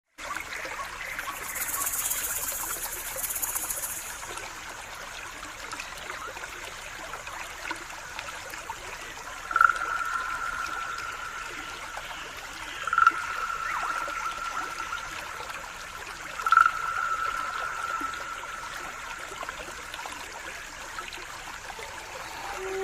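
Stream water trickling steadily. Three clear ringing tones, each with a sharp start and a slow fade, sound about three and a half seconds apart midway through.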